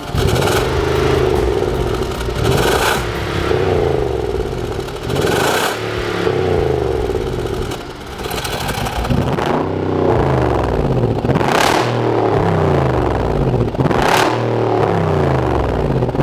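Hyundai Equus VS500's V8 with a tuned variable-valve exhaust, revved hard about five times, each rev climbing sharply and falling back, for a deep, AMG-style exhaust note.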